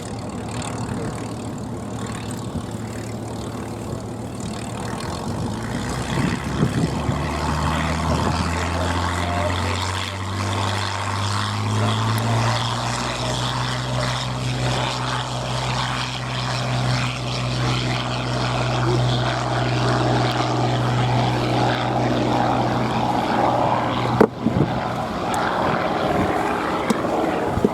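Hawker Sea Hurricane Ib's Rolls-Royce Merlin V12 piston engine and propeller running. The engine note rises over a few seconds and then holds steady. A sharp knock comes about three-quarters of the way through.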